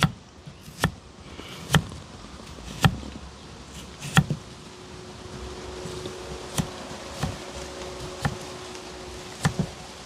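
Knife chopping on a cutting board in single, separate strokes about a second apart, around ten in all. A faint steady hum comes in about halfway through.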